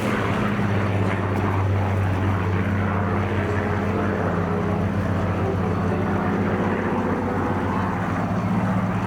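Spitfire PR Mk XIX's Rolls-Royce Griffon V12 engine running steadily as it flies its display. The sound is a constant, deep propeller drone.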